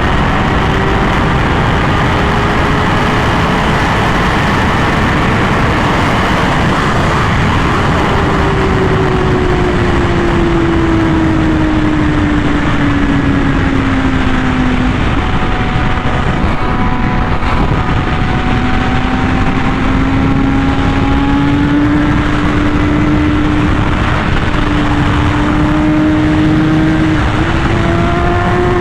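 Honda Fireblade CBR1000RR-R SP inline-four with an SC Project exhaust, running at speed with heavy wind rush. The engine note eases down slowly from about a third of the way in, then climbs again in the second half.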